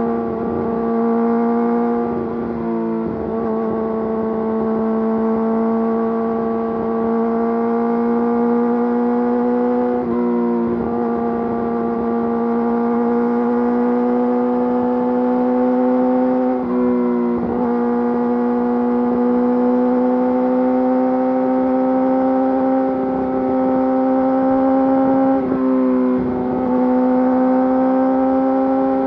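Yamaha YZF-R6 inline-four engine running through an Akrapovič full exhaust system, held at high revs with a pitch that climbs slowly. The pitch dips briefly about four times, then climbs again.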